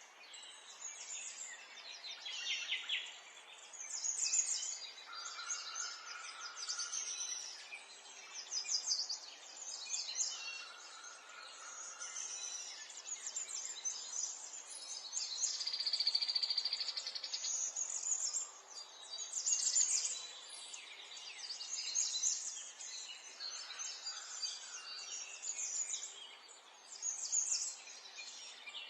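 Several small songbirds chirping and singing over one another in quick, repeated calls, some lower notes coming in now and then, over a steady faint hiss.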